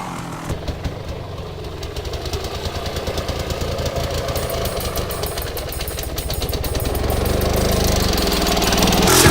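250cc dirt bike engine running at low revs, a rapid, even putter that grows gradually louder.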